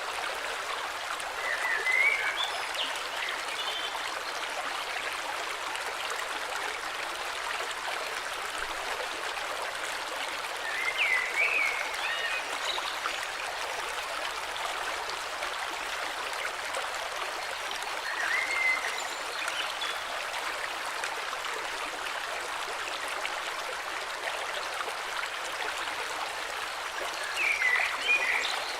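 A river flowing steadily, with short bird chirps about four times, roughly every eight seconds.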